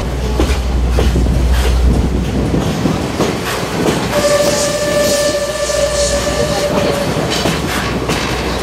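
Two-axle trolley car running over jointed track with a steady clickety-clack and rumble. About four seconds in, the locomotive's horn sounds one steady note for about three seconds.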